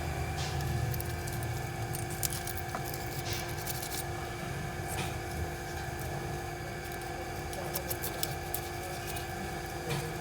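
Light metallic clicks and clinks of small parts and hand tools over a steady machine hum, typical of valve-shim work on a bare engine head.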